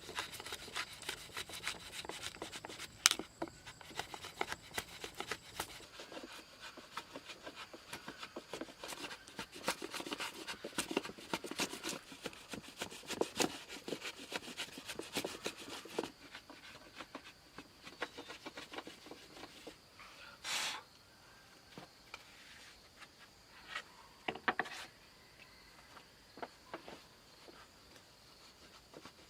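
Hand tool scraping and rubbing on wood in quick, dense strokes, thinning out after about sixteen seconds to a few separate scrapes near the end.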